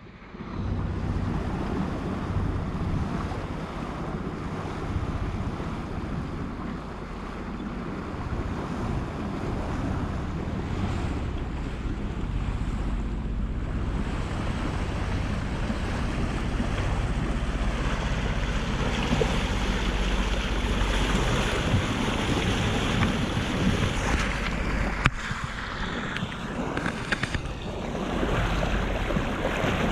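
Wind buffeting the microphone over the rush of sea water along the hull of a sailboat under way offshore; a steady, unbroken noise.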